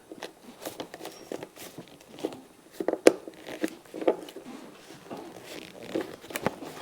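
Hands working on motorcycle dash and handlebar fittings: scattered small clicks, taps and rustling, with a sharper knock about three seconds in.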